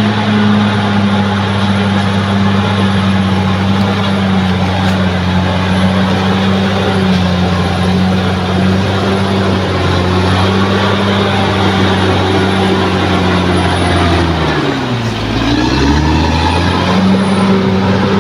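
Bulldozer's heavy diesel engine running steadily; about fourteen and a half seconds in its engine speed drops sharply and then climbs back up.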